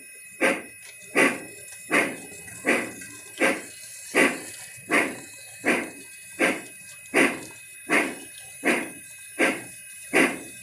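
Locomotive sound with an even beat of about four strong pulses every three seconds, each dying away before the next, over a faint steady ringing tone.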